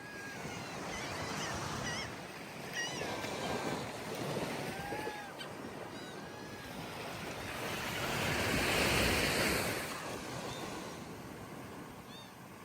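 Surf washing on a sandy beach, with one wave swelling and breaking about eight to ten seconds in. Short whistled bird calls sound over it in the first half and again near the end.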